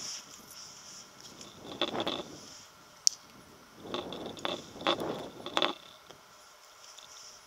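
Scraping and rustling handling noises in two bouts, the second longer with several short scrapes in a row, and a single sharp click between them.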